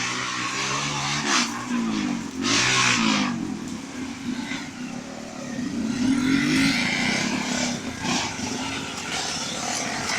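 Trail motorcycle engine revving up and down repeatedly, with a few short bursts of hiss.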